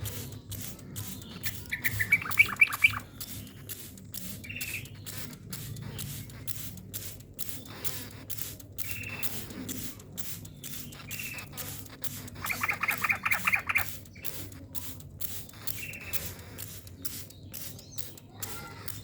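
Yellow-vented bulbul (trucukan) singing: two loud, fast chattering trills about ten seconds apart, with short single notes between them. A steady rapid clicking runs underneath.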